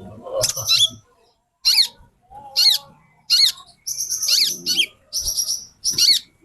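Female konin sunbird calling: about seven short, high phrases of quick falling chirps and buzzy twitters with brief pauses between them.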